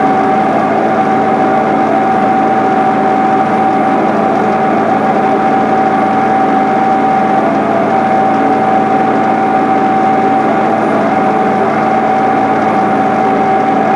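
John Deere 8970 tractor's six-cylinder Cummins diesel running steadily while pulling a turbo-till through the field, with a steady whine over the engine note.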